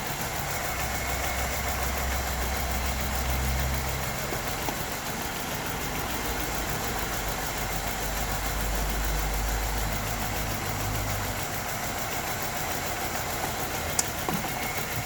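LPG-converted car engine idling unevenly, its low note shifting about 4 seconds in and again near 11 seconds as the wiring of the add-on LPG control unit is wiggled: a poor contact or bad solder joint that the mechanic suspects is behind the engine's shaking idle. One sharp click near the end.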